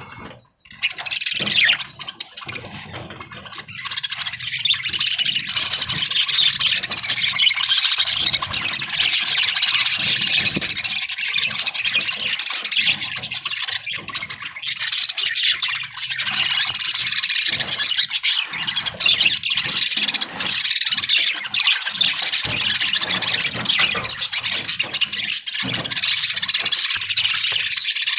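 A flock of budgerigars chattering and chirping continuously, a dense mass of rapid high calls.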